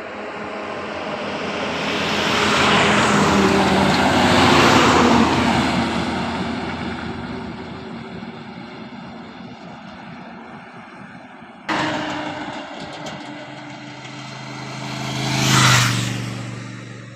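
Heavy diesel truck driving past slowly, its engine note and road noise building to a peak and then fading away. After an abrupt cut, a second vehicle passes more quickly near the end, rising sharply and dropping in pitch as it goes by.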